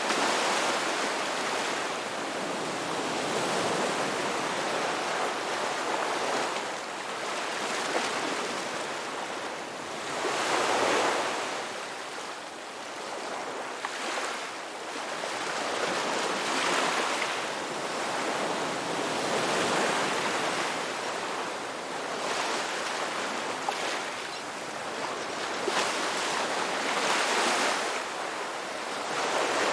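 Ocean surf: waves breaking and washing in, swelling and easing every few seconds, with one of the strongest surges about ten seconds in.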